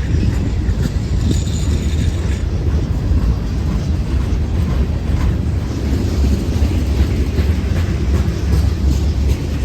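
Freight train rolling past, a loud, steady low rumble.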